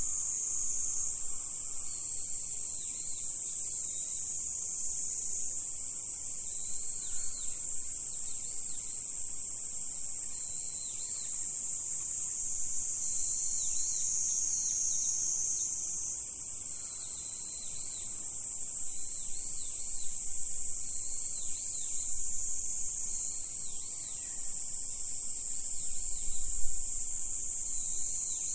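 A steady, high-pitched chorus of insects, crickets or cicadas, that shifts up and down in pitch every few seconds, with faint short high chirps beneath it. A brief soft low bump comes near the end.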